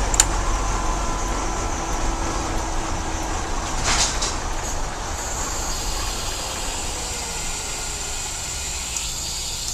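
2002 GMC Blue Bird Handybus driving on the road: steady rumble of its 8.1-litre gasoline V8 with road noise, running smoothly. A brief knock about four seconds in.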